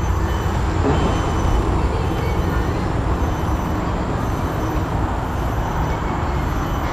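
Steady road traffic noise from a highway, vehicles running past in a continuous even rush.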